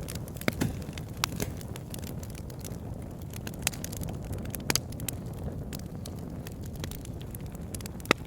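Campfire burning with a steady low rumble of flames and scattered sharp wood crackles and pops, the loudest pop near the end.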